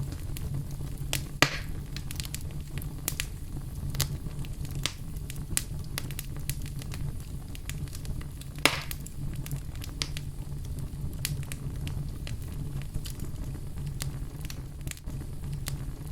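Wood fire burning in a fireplace: a steady low rumble with frequent small crackles, and two sharper pops, one about a second and a half in and one about halfway through.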